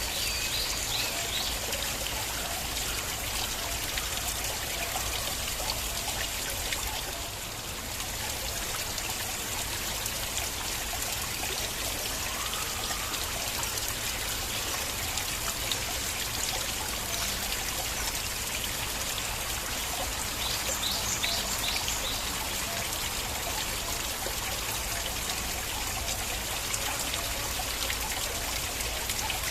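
Stream water flowing and trickling steadily, with small splashy gurgles now and then.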